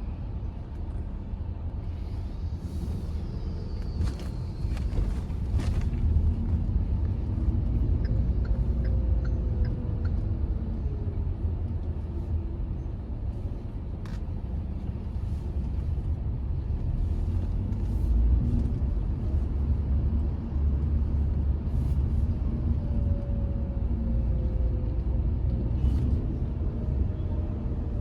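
Hyundai i20 driving on the road with its 1.2-litre petrol engine: a steady low rumble of engine and tyres, its pitch gliding up and down now and then, with a few short knocks.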